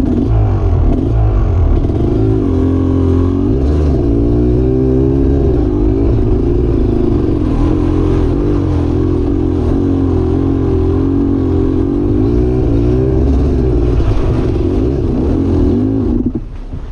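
Off-road vehicle engine revving hard under load as it climbs through a rocky riverbed, its pitch rising and falling with the throttle, then dropping away about sixteen seconds in.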